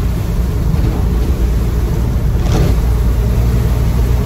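Land Rover Defender 90's 2.2 TDCi four-cylinder turbodiesel and road noise heard inside the cab while driving, a steady low drone. A brief hiss comes about two and a half seconds in.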